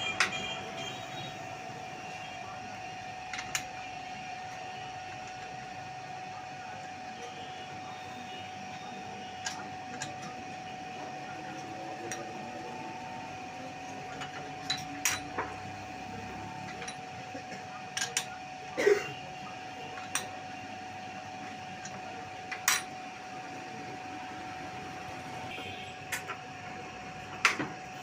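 Steady motor hum holding one even tone, with scattered sharp metal taps and clicks from cylinder sleeve work. One of the taps, about two-thirds of the way through, is louder than the rest.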